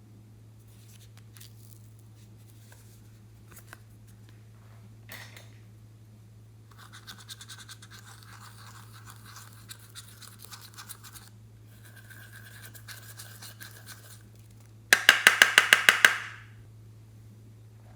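Slime being squished and worked by hand, with sticky crackling and quick clicking. Near the end comes a loud burst of about nine sharp clicks in a second.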